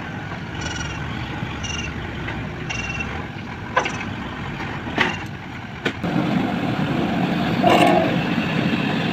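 JCB 3DX backhoe loader's diesel engine running steadily, with a few sharp knocks in the middle; the engine grows louder about six seconds in.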